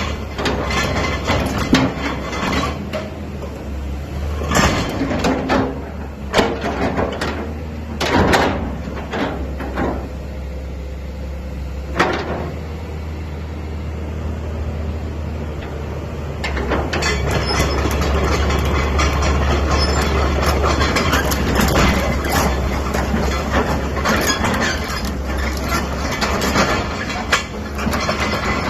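LiuGong 925D excavator's diesel engine running steadily, with several sharp metal clanks in the first half. From about 17 seconds in the engine runs louder and harder, as if under load.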